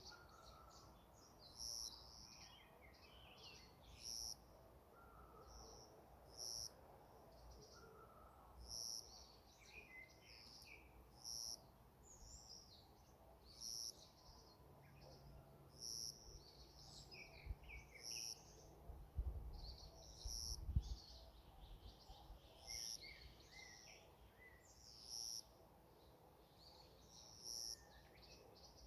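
Wild birds singing in woodland: one bird repeats a short, high call at a steady pace, about every two seconds, while other birds chirp softly in between. A few low thumps come about two-thirds of the way through.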